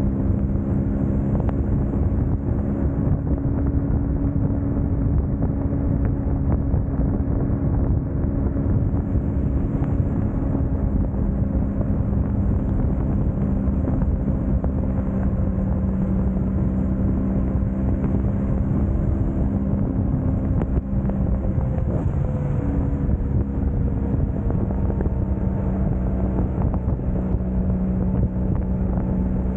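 Motorcycle engine running at a steady cruising speed, mixed with wind and road noise.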